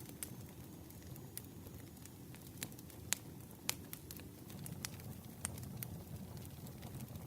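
Campfire crackling: a low steady rumble of burning wood with irregular sharp pops and snaps.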